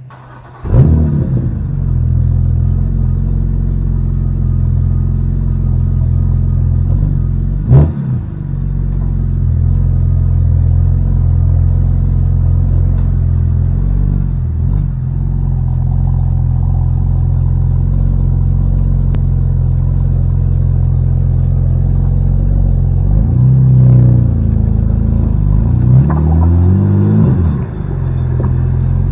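BMW N52 straight-six with its muffler deleted, starting up with a flare of revs about a second in, then idling with a steady low drone. It is blipped briefly a few times: once about eight seconds in, and twice near the end.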